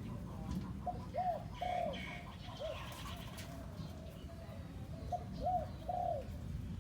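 A young decoy dove calling: two phrases of low, arched notes, each phrase a short note followed by longer ones, the first about a second in and the second near five seconds, with a single short note between them.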